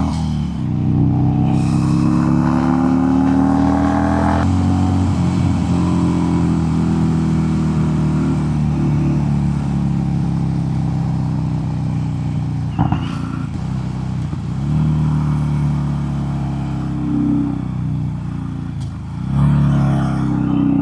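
Harley-Davidson Sportster's V-twin engine running under way, its pitch rising as it pulls, then dropping suddenly about four seconds in as with a gear change, and then holding a steadier cruise with small rises and falls. A single sharp click about two-thirds of the way through.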